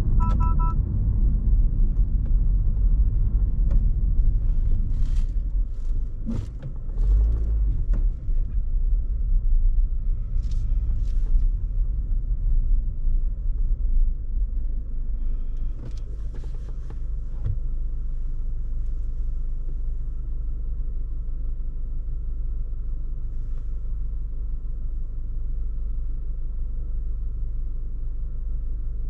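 Honda ZR-V driving through city streets, heard from inside the cabin as a steady low road and engine rumble, with a few scattered light clicks and knocks. A short electronic two-tone beep sounds right at the start.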